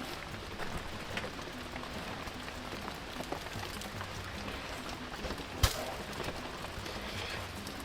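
Steady rain falling, with scattered drips and small ticks. A single sharp knock comes about five and a half seconds in.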